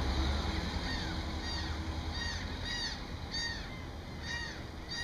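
Birds calling: a run of short, arched cries repeating about every half second. Under them a low rumble eases off as a pickup truck drives away.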